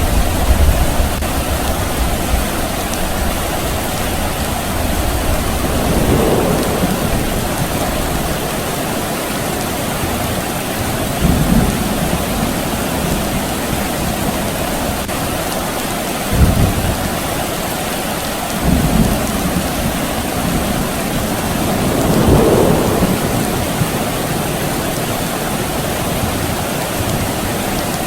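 Steady rain falling, with low rumbles of distant thunder swelling and fading every few seconds.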